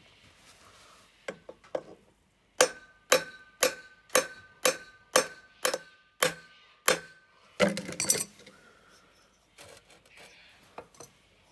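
Hammer tapping on a flywheel puller fitted to a small engine's flywheel: a steady run of about nine sharp metallic taps, roughly two a second, each with a short ring, struck to jar the flywheel loose. A brief clatter follows about eight seconds in, then a couple of lighter taps near the end.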